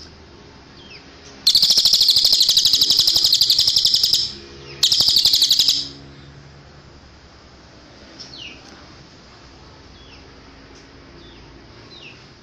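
A cililin songbird singing: two loud, rapid high-pitched trills of evenly repeated notes, the first about two and a half seconds long and the second about a second long, with faint short falling whistled notes before and after.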